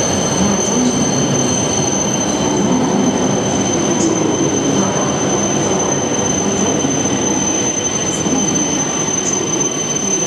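Tohoku Shinkansen train moving along the station platform: a steady, loud rush of wheel and running noise with a thin, steady high whine over it.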